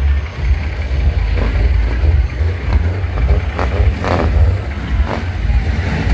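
Truck engine running with a steady low rumble, with a few brief knocks about three and a half to four seconds in and again around five seconds.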